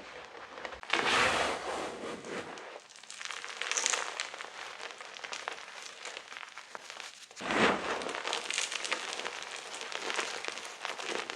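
Gym chalk being crushed and crumbled: a dense crunching crackle of many small clicks, with a louder crunch about a second in and the loudest one around seven and a half seconds in.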